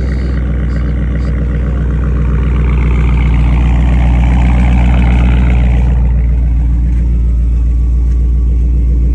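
Dodge Charger Scat Pack's 392 HEMI V8 running through a muffler-deleted exhaust with a steady deep rumble. It swells a little louder for a few seconds midway, then settles.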